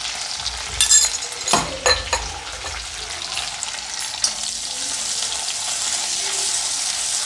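Curry leaves, mint and ginger-garlic paste frying in hot oil in a kadai, stirred with a spatula. There are a few sharp scrapes and knocks of the spatula against the pan in the first two seconds, then a steady sizzling hiss that grows louder.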